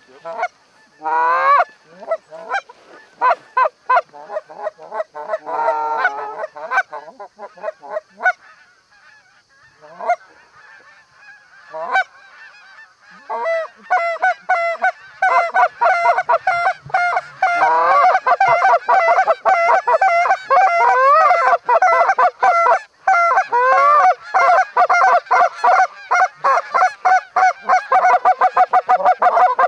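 Canada geese honking: scattered honks at first, swelling about halfway through into a dense, continuous chorus of many overlapping honks as a large flock calls.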